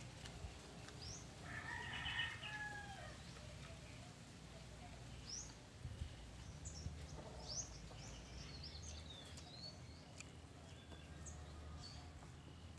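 Small birds chirping in short, high, rising chirps scattered throughout, with a louder, longer bird call about two seconds in.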